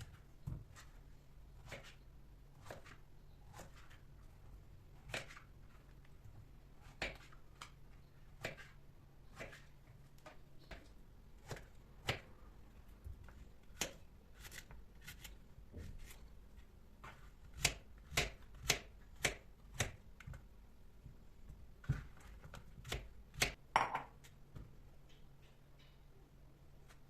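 Knife chopping vegetables on a cutting board: single even strokes about one a second, then a quicker run of louder strokes a little past the middle and a few more near the end.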